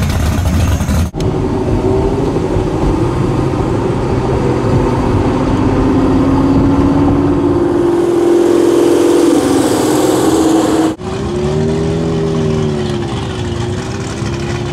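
Car engines across cut-together clips: first an engine whose pitch climbs steadily as it accelerates, then, after an abrupt cut, an engine revving up and down.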